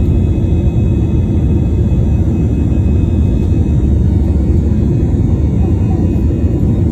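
Airplane taking off: a loud, steady low rumble of its engines that does not change.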